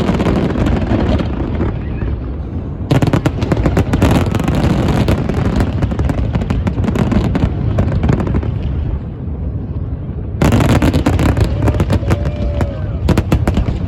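Fireworks going off in rapid succession, a dense run of bangs and crackling. Fresh volleys of sharp crackle break out about three seconds in and again about ten seconds in.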